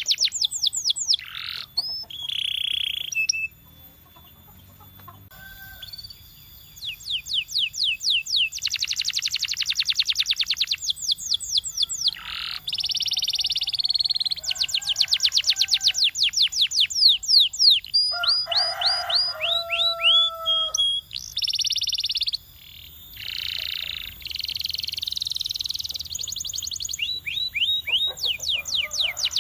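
Domestic canary singing: fast trills of rapidly repeated notes, with falling sweeps and short held whistles in between. The song pauses briefly about four seconds in, then runs on in long rolling phrases.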